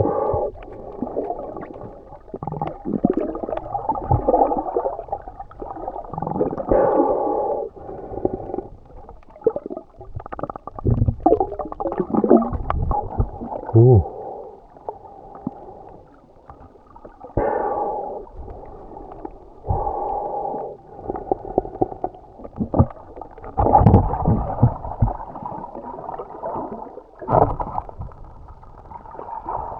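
Muffled water sloshing and gurgling heard through a camera in a waterproof housing, underwater or at the surface, in irregular surges with occasional knocks.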